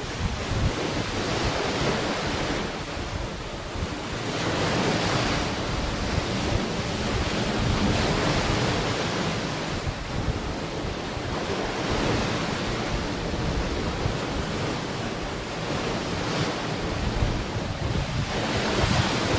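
Sea waves washing onto a beach, the surf swelling and easing every few seconds, with wind buffeting the microphone as a low rumble.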